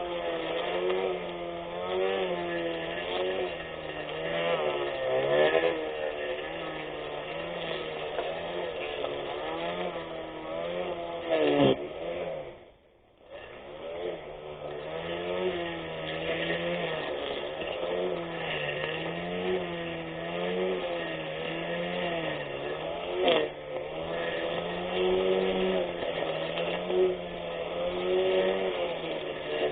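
24V brushless electric grass cutter motor running, its pitch wavering up and down as the load changes while it cuts. About 12 s in it winds down and stops for about a second, then starts up again.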